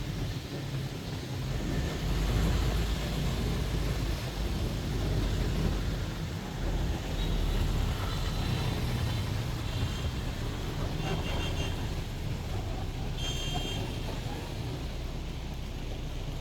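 City traffic heard from a moving double-decker bus: a steady low rumble of engine and road noise with a haze of tyre and street sound. A few short high tones come through in the second half.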